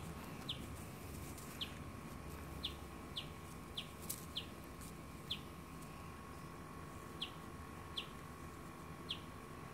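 A bird chirping: a short, high call that falls in pitch, repeated about ten times at uneven intervals.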